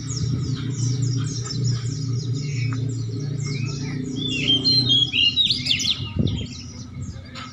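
Many caged songbirds chirping and calling over one another in a dense, continuous chatter. A steady low hum runs under them and stops about five seconds in.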